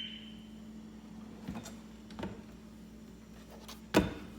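Kitchen cabinetry being handled: a couple of light knocks, then a sharp knock about four seconds in, over a low steady hum.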